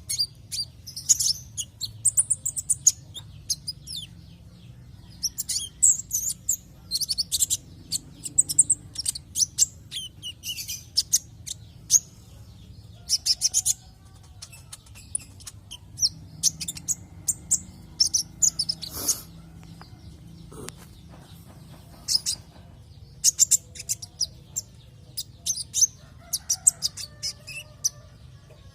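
Konin (kolibri ninja sunbird) song: quick, high-pitched chirps and twittering trills in repeated bursts with short pauses between, played as a lure call to set other birds singing. A faint steady low hum runs underneath.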